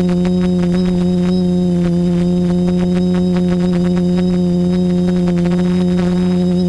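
TBS Discovery quadcopter's electric motors and propellers running, a loud, steady hum that holds one pitch with a stack of overtones.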